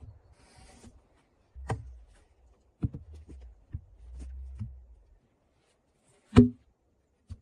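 A few irregular knocks and thuds, the heaviest about six seconds in, with a low rumble under the earlier ones.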